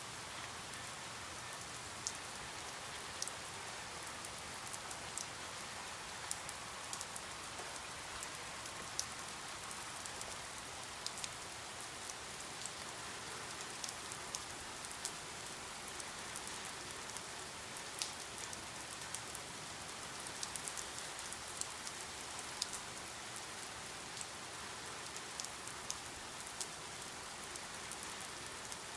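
Steady rain, an even hiss with many individual drops ticking sharply against a nearby surface.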